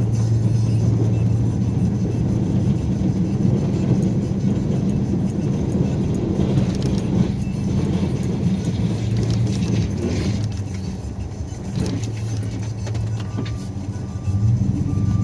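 Snow-plow vehicle's engine running steadily under load with rattling. It eases off about eleven seconds in and picks up again near the end, when a few short faint beeps also sound.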